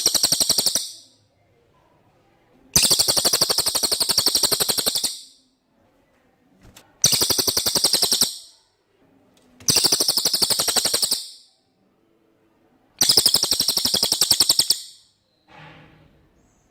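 Cililin bird singing: rapid, high-pitched rattling trills, four full phrases plus the tail of one at the start, each lasting one and a half to two and a half seconds, with short pauses between.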